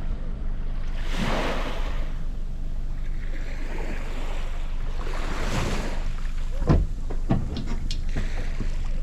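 Wind buffeting the microphone over water washing at a boat slipway, with a few short knocks about three quarters of the way through.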